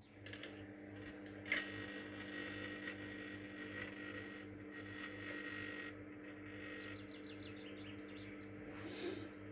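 Microwave oven running with a steady hum, while an electrical plasma arc inside it buzzes and crackles for about the first seven seconds. There is one sharp crack about a second and a half in. After the crackle stops, the hum goes on.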